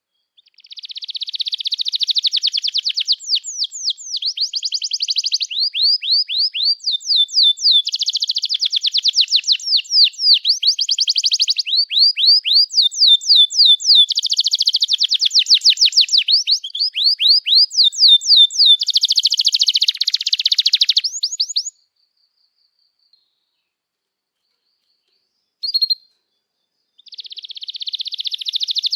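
Domestic canary singing a long song of fast trills and rapid runs of sweeping notes. The song stops for a few seconds about three-quarters of the way through, with one short chirp in the gap, then starts again near the end.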